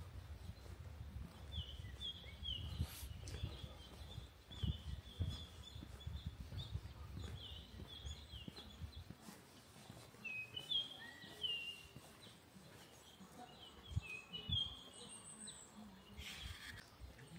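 Small birds chirping over and over in short, high, downward-hooking calls. A low rumble sits underneath and stops about halfway through.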